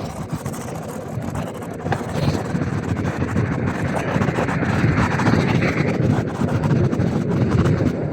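Wind buffeting the microphone of a camera on a moving bicycle, riding in the rain: an even, rough rushing noise that gets louder about two seconds in.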